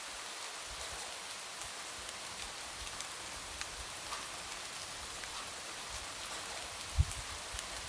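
Light rain against a window: a steady hiss with scattered ticks of single drops. A single dull low thump about seven seconds in.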